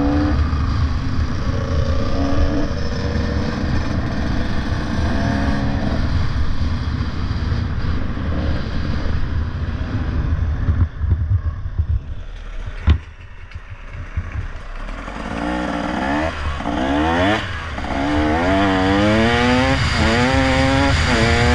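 Motorcycle on the move over steady wind rumble. Its engine note rises and drops back again and again in the second half as it accelerates through the gears. It eases off briefly in the middle, with one sharp click.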